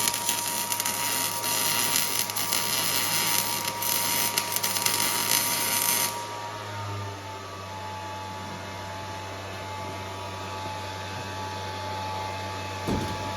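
A metalworking tool at work on steel exhaust pipe: a loud harsh hiss over a steady whine, cutting off about six seconds in and leaving a steady low hum.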